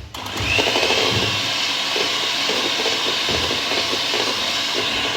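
Electric hand mixer starting up and running steadily, beating whipped cream with chocolate ganache in a bowl; its whine rises briefly as it comes up to speed.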